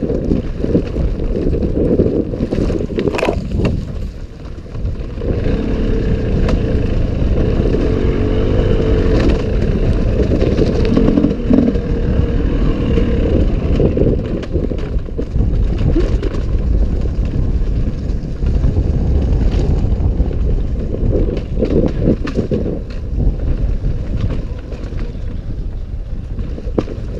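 An off-road bike ridden over a rough forest trail: a steady low rumble of wind on the microphone mixed with rattling and clattering. There are a couple of sharp knocks about three seconds in.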